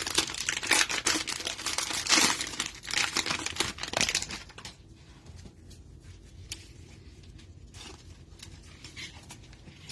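Cellophane wrapper of a trading-card cello pack crinkling and tearing as the pack is ripped open, for about the first four and a half seconds. After that only faint scattered clicks.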